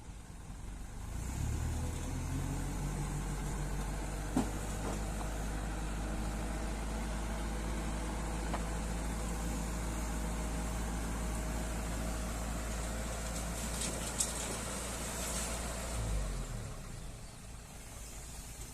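Dump truck's diesel engine rising to a raised, steady speed about a second in and holding it, as when driving the hydraulic tipper to unload, then dropping back toward idle near the end. Two short sharp knocks partway through.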